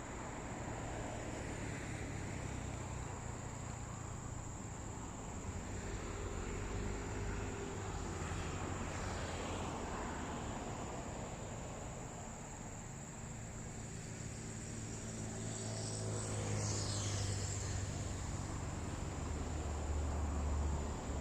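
A steady low rumble under a constant high-pitched insect drone, likely crickets or cicadas.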